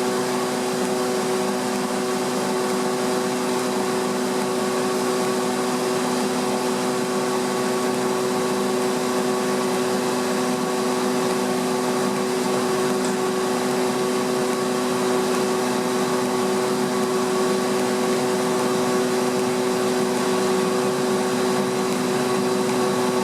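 Kaeser ESD 351 oil-flooded rotary screw air compressor running steadily: a constant hum with a fixed humming tone over a continuous rushing noise.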